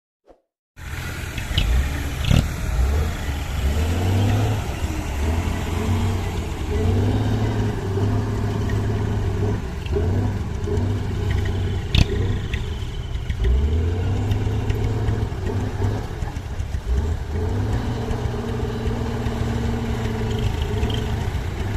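Hino 300 dump truck's diesel engine revving up and falling back again and again, its pitch stepping up and down. It cuts in about a second in, with two sharp knocks, the louder one about halfway through.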